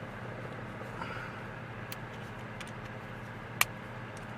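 A few small sharp clicks of hand tools and bits being handled, the loudest about three and a half seconds in, over a steady low hum.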